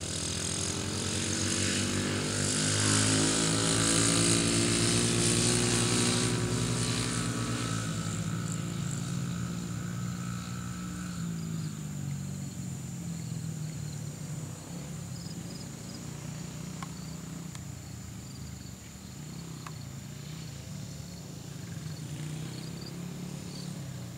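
Small single-cylinder four-stroke Honda dirt bike engine running: it rides close past, loudest a couple of seconds in with its pitch sliding, then carries on more quietly and farther off.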